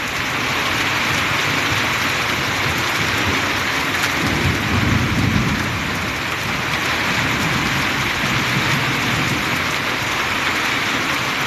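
Heavy rain falling in strong wind, a steady dense rush, with a low rumble of thunder swelling about four to six seconds in.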